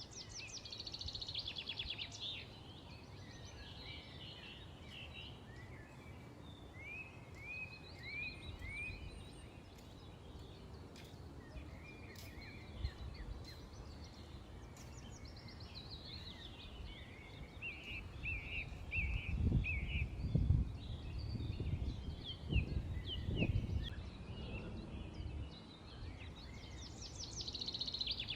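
Several small birds chirping and trilling over a steady outdoor background hiss. About two-thirds of the way in, a low rumble swells for several seconds, louder than the birds.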